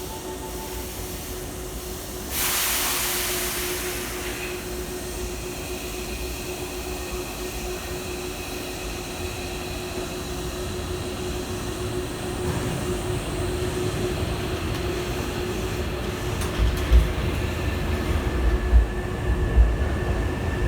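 Hankyu electric train pulling out of the platform. A sudden hiss of air comes about two seconds in and fades, then a steady hum and whine as the train moves off. Near the end, a low rumble and repeated wheel thumps over rail joints grow.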